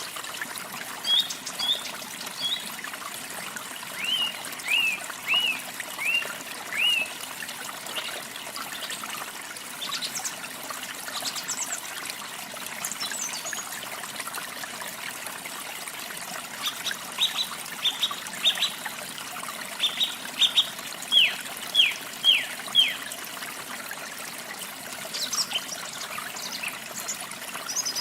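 Small birds chirping in short, quickly falling calls over a steady trickle of running water. One run of chirps comes about four seconds in and a longer run past the middle.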